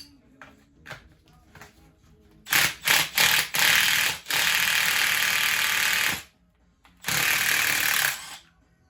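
Cordless power driver run in a few short trigger pulls, then in two longer runs of about two and a half seconds and just over a second, each stopping abruptly.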